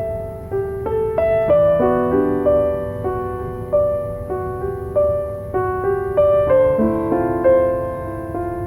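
Background music: a gentle piano melody, notes struck about two a second and left to ring, over a low steady background noise.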